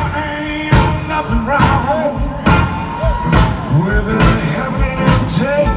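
Live band playing a soul-blues song, drums keeping a steady beat under bending, gliding melodic lines.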